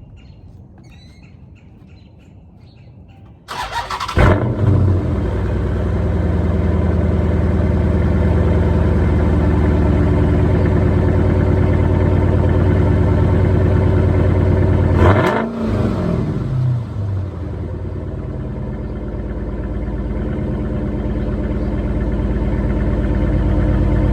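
Straight-piped 2014 Dodge Charger engine starting about three and a half seconds in with a loud flare, then settling into a steady, loud idle. About fifteen seconds in it is revved once, rising and falling in pitch, and drops back to idle. Faint bird chirps are heard before it starts.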